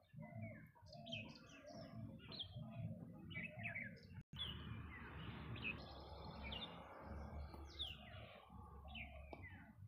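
Birds chirping in many short, quick, falling high calls over a faint low rumble. The sound cuts out for an instant about four seconds in.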